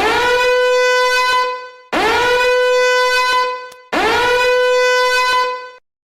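Three long horn blasts, each swooping up into the same steady note and held for nearly two seconds.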